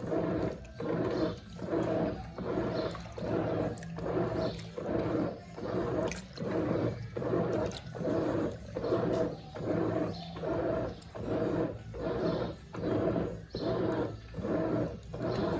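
Brastemp Eggo 1 kg mini washing machine agitating a wash load: water swishes in even, regular pulses, about three every two seconds, over a steady low motor hum.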